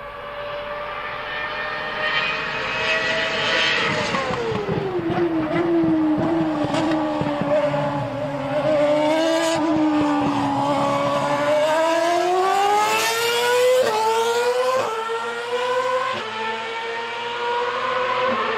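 Ferrari Formula 1 car engine on track. It drops in pitch as the car slows about four seconds in, runs low, then climbs under acceleration, with three quick upshifts near the end.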